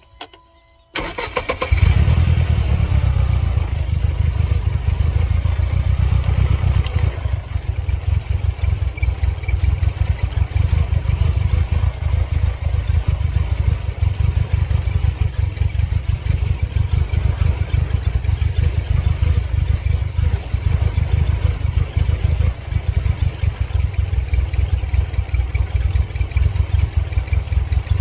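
Mercedes-Benz C230 Kompressor's supercharged 2.3-litre four-cylinder engine cranked by the starter about a second in, catching within a second and then idling steadily.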